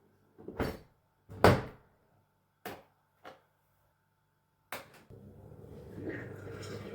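A handful of short knocks and clunks, the loudest about a second and a half in. A steady mechanical hum starts about five seconds in.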